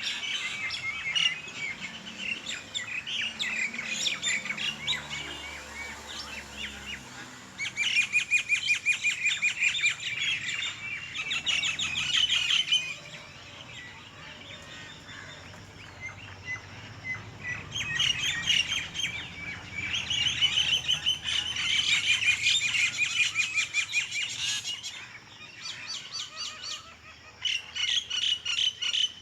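Several songbirds chirping and singing together, with stretches of fast, rapid-fire repeated notes that come and go in waves.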